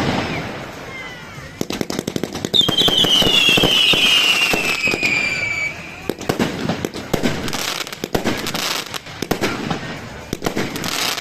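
Fireworks going off: a rapid run of bangs and crackles, with a long whistle falling in pitch that starts about two and a half seconds in and lasts about three seconds.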